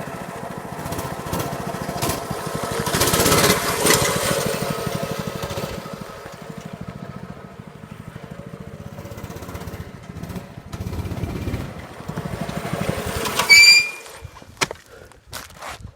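Small pull-start dirt bike engine running and revving, rising and falling in loudness and loudest about three to four seconds in. Near the end there is a brief sharp high squeal, and then the engine sound drops away, leaving a few scattered knocks.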